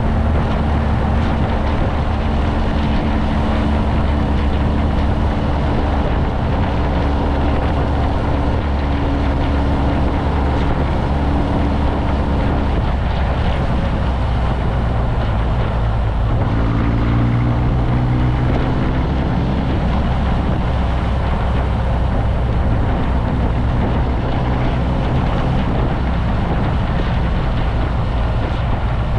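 Motorcycle engine running while riding, with wind rushing over the microphone. A little under halfway through the engine note drops, then climbs again a few seconds later.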